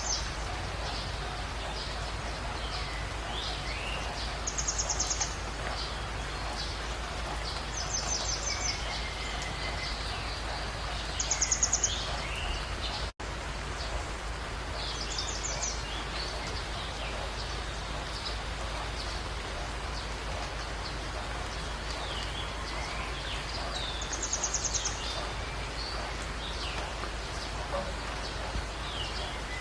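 Several birds calling in a steady hiss of outdoor ambience. A high, fast trill lasting about a second repeats every few seconds, with short chirps and whistles in between. All sound cuts out for an instant about halfway through.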